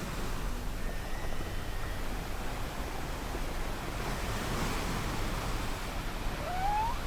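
Ocean waves washing steadily, with faint whale calls over them: a short held high note about a second in, and a call rising in pitch near the end.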